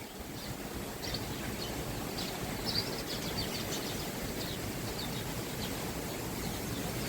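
Small birds chirping repeatedly, short high calls scattered throughout, over a steady low rushing background noise.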